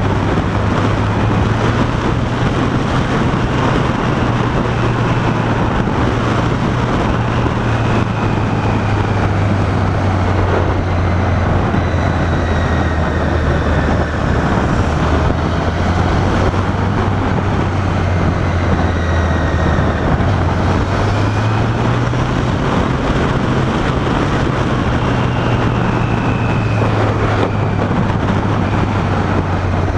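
Motorcycle engine running at a steady cruise, heard as a low drone under heavy wind and road noise, with its pitch rising slightly about two-thirds of the way through.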